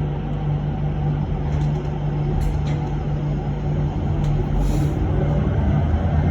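Cabin noise inside an electric bus: a steady low hum with a few light clicks, and a short hiss of air about halfway through.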